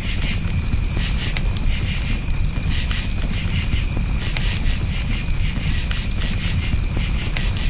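Campfire crackling with frequent sharp pops over a low, steady rumble of burning, while crickets chirp in a continuous high trill.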